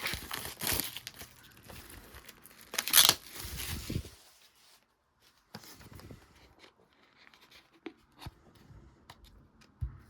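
Plastic shrink-wrap being torn and crinkled off a sealed DVD box set, with the loudest rip about three seconds in. After that only faint rustles and light clicks of the case being handled.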